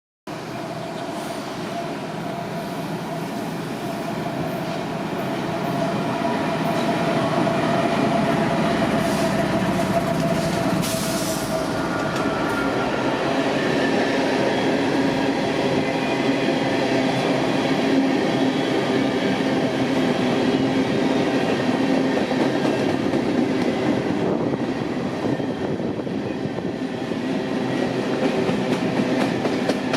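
Empty coal train of hopper cars rolling past on the rails: a steady rumble and rattle of wheels, with faint high whining squeals from the wheels. It grows louder over the first several seconds.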